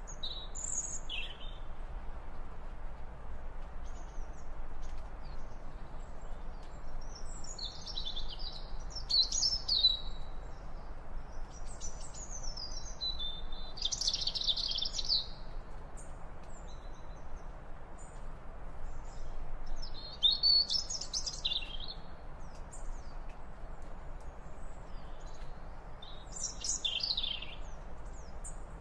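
A songbird singing: short, quick, high phrases of chirps and trills, each lasting a second or two, repeated every few seconds over a steady low background hiss.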